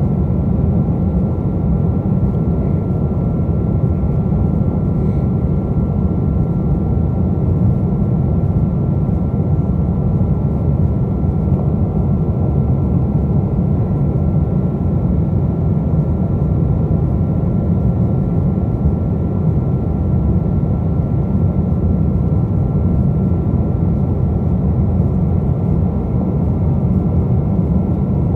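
Steady cabin noise of a Boeing 777-200 airliner: a low, even rumble of engines and airflow with a thin steady whine above it, unchanging throughout.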